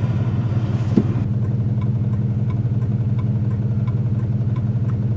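Car engine running with a steady low drone. There is a single knock about a second in, and after it faint, regular ticking about three times a second.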